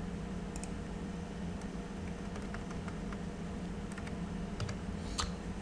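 A computer keyboard being typed on in a slow, irregular handful of separate keystrokes, over a steady low hum.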